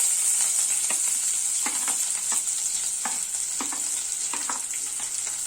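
Chopped onions sizzling as they fry in hot oil in a pan, stirred with short knocks of the utensil against the pan every second or so.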